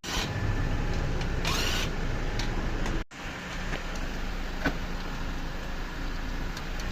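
Steady vehicle rumble with a short rising creak about a second and a half in, typical of the squeak from a worn spherical bearing in an Old Man Emu BP-51 shock absorber. The sound drops out briefly about three seconds in.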